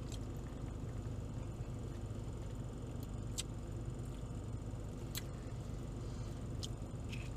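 Steady low hum inside a parked car, its engine or air conditioning running, with a few faint sharp clicks.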